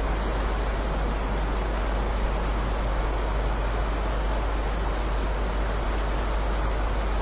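Heavy rain: a dense, steady hiss with no separate drops heard, over a constant low rumble.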